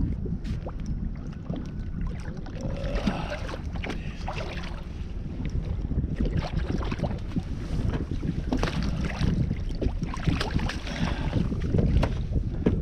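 Wind buffeting the microphone on a fishing kayak, a steady low rumble with scattered sharp knocks and patches of hissy, splashy water noise.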